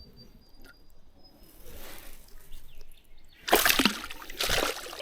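River water splashing and sloshing as a small Murray cod is put back in. The splashes start suddenly about three and a half seconds in, with a second one a second later.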